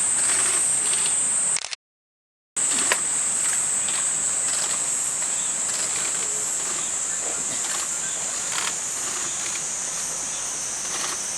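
Steady high-pitched insect drone, broken once by about a second of dead silence roughly two seconds in, with faint short chirps and clicks scattered over it.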